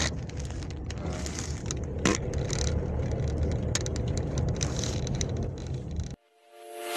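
Vehicle on the move: a steady low driving rumble with scattered sharp knocks and clicks. It cuts off suddenly about six seconds in, and music fades in near the end.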